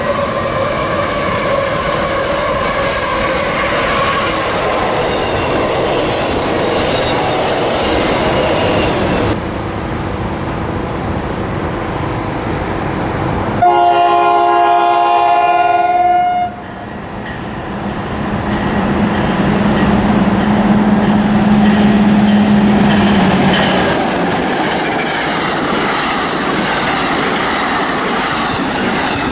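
Trains running past on the rails, a steady rolling noise from the wheels and cars, with sudden changes as the scene cuts between passing trains. Midway, a locomotive horn sounds for about three seconds as a chord of several notes, and later a single low steady tone is held for about five seconds.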